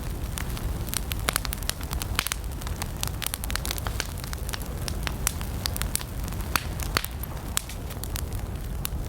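Wood campfire burning, with many sharp irregular crackles and pops over a steady low rumble of flame.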